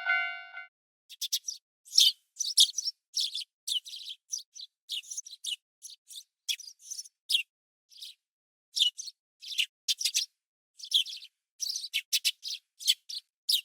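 Small birds chirping: a run of short, high chirps and quick trills with brief gaps between them. The last dings of a railroad crossing bell stop just before the chirping starts.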